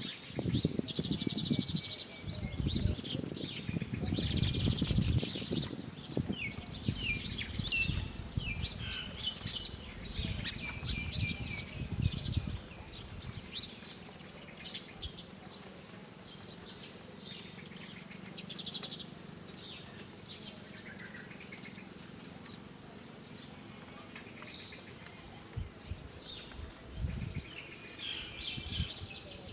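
Small birds chirping and calling in short, high notes on and off throughout. An uneven low rumble runs under them for the first half and then dies away.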